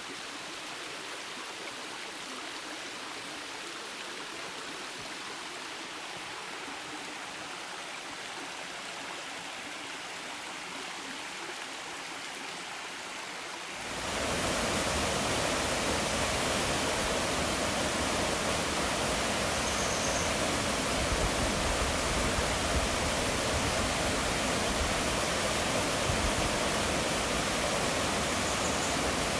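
Rushing water of a mountain waterfall and its stream, a steady noise. About halfway through it becomes suddenly louder and fuller, as if much closer to the falling water.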